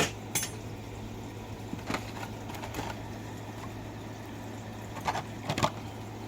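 A few scattered sharp clicks and taps from small objects being handled, two close together near the end, over a steady low hum.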